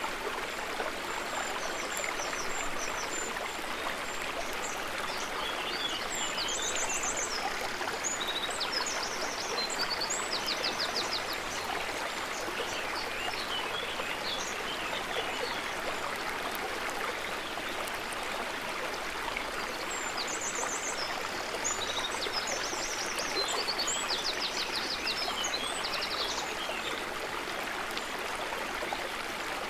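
Stream water running and splashing steadily. Bouts of rapid high chirping come about a quarter of the way in and again about two-thirds through.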